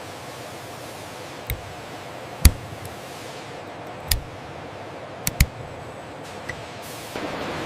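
Factory-floor background: a steady hiss broken by about six sharp knocks, the loudest about two and a half seconds in and two in quick succession a little past five seconds.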